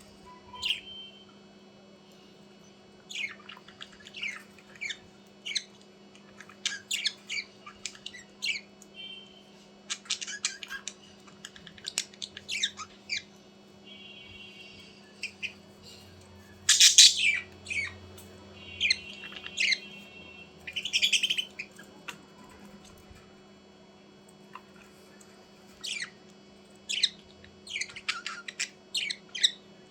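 Budgerigars chirping and squawking in short, sharp calls that come in irregular runs, the loudest about halfway through, over a steady low hum.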